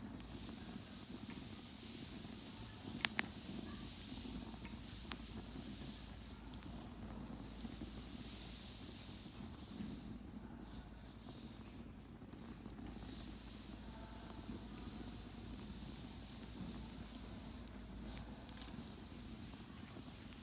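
Campfire burning with a steady low hiss and occasional crackles, with a sharp double pop about three seconds in.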